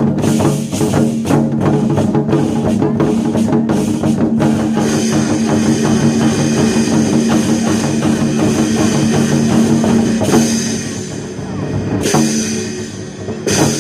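Amplified rock-style backing music with a driving drum beat, played for a war drum troupe's drumming routine. It grows quieter in the last few seconds.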